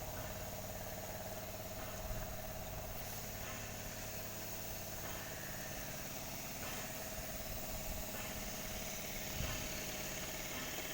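A motor running steadily with a constant hum, with a couple of faint knocks along the way.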